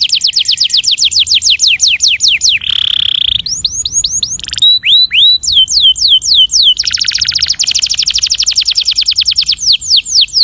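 Domestic canary singing a long rolling song. It runs through fast series of high, down-sweeping notes, a short buzzy note about three seconds in, and a very rapid trill past the middle.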